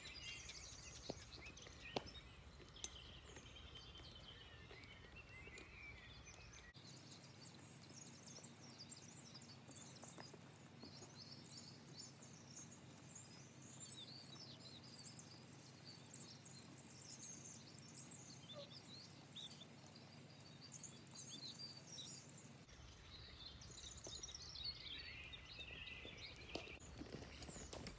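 Faint outdoor ambience with small birds chirping now and then, and a few sharp clicks in the first three seconds.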